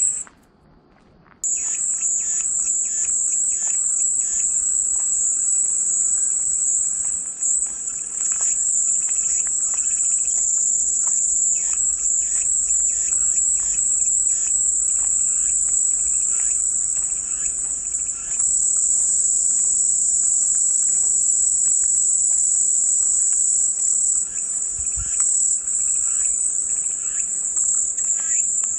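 Cicadas buzzing in a continuous high-pitched drone, cutting out for about a second near the start and then resuming.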